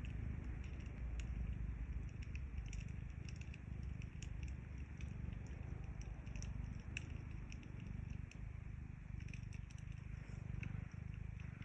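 Domestic cat purring steadily in a low, pulsing rumble, with a wood fire crackling in scattered sharp pops.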